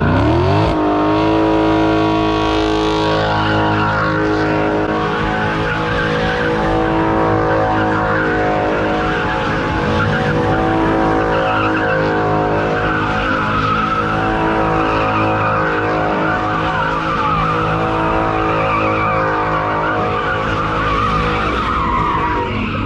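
A high-performance car's engine revs up and is held at high rpm for about twenty seconds while its tyres squeal and skid, as in a burnout or slide. The revs drop near the end and then climb again.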